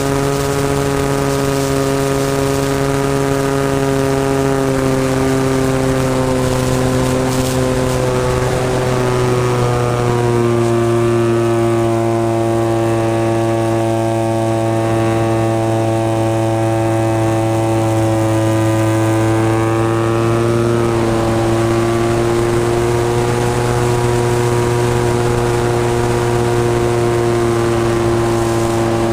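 SV Hobbies 26cc two-stroke gas engine of an RC airplane running steadily with its propeller, heard close up. Its pitch shifts with the throttle about ten seconds in and again about twenty seconds in.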